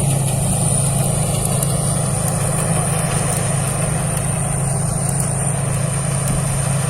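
Thai Seng Yont 'Chao Payu Thoranong' rice combine harvester running steadily at working speed, a constant engine hum with a thin high whine over it.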